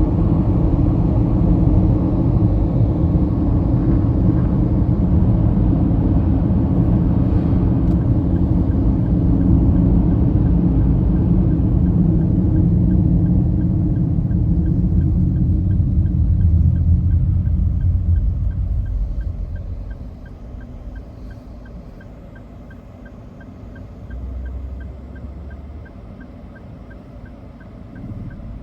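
Steady road and engine rumble of a moving car, heard from inside, loud until about two-thirds of the way through, when it drops away sharply as the car slows. A faint, even ticking about twice a second runs through the second half.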